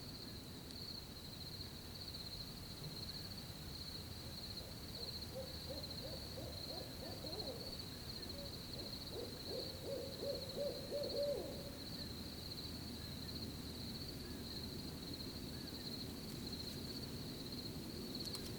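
An owl hooting in a low, quavering trill through the middle of the stretch, over a steady high chirring of crickets.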